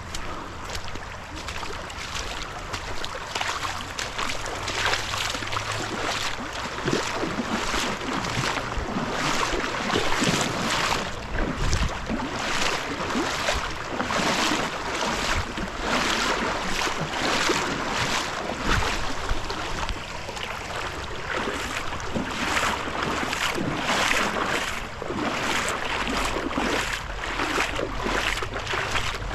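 Rhythmic splashing in shallow river water, about one or two splashes a second, with some wind on the microphone.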